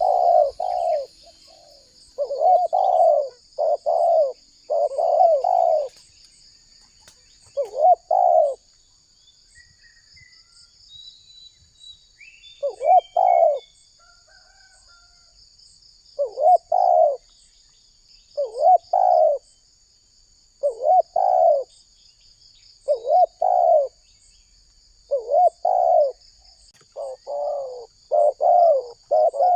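Spotted dove (tekukur) cooing in repeated phrases of several notes. The phrases come in quick runs, stop for about four seconds in the middle, then return about every two seconds. A steady high-pitched buzzing runs underneath, with a few faint small-bird chirps in the gap.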